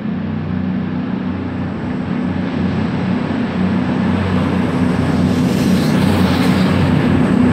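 Class 220 Voyager diesel multiple unit pulling out of the station, its underfloor diesel engines running with a steady low hum that grows gradually louder as the train draws nearer.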